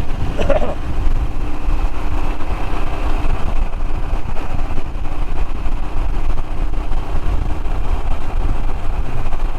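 Royal Enfield Himalayan's single-cylinder engine running steadily while riding, under a heavy low rumble.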